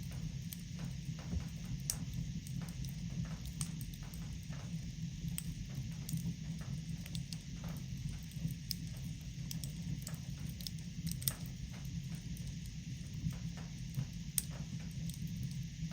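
Fire in a fireplace crackling, with frequent irregular snaps and pops over a steady low rumble.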